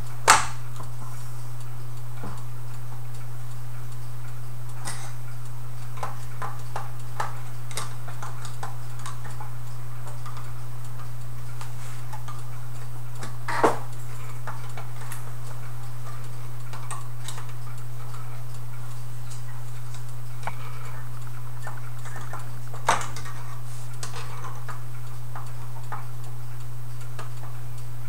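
Irregular light metallic clicks and taps from antique clock parts being handled, with three louder knocks: near the start, about halfway, and about three-quarters through. A steady low hum runs underneath.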